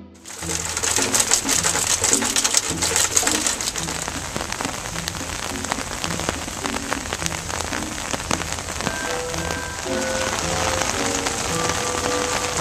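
Steady rain falling on leaves and surfaces, with many separate drops hitting close by. Soft background music with low notes plays beneath it.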